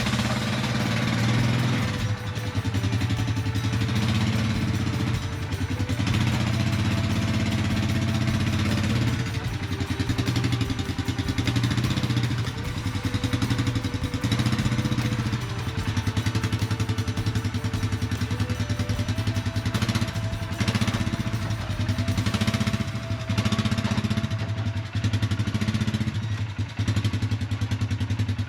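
Polaris Sportsman 570 ATV's single-cylinder engine running at low speed, its pitch stepping up and down a few times as the throttle changes.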